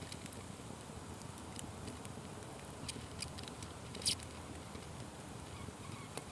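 Wood fire crackling, with scattered sharp pops, the loudest about four seconds in, over a low steady rush.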